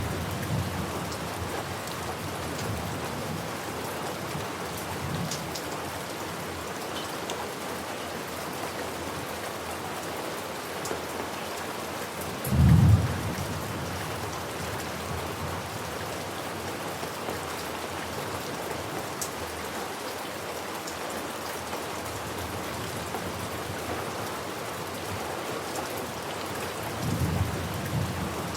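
Steady heavy rain pattering on surfaces, with low rolls of thunder near the start and near the end and one short, louder thunder boom about halfway through.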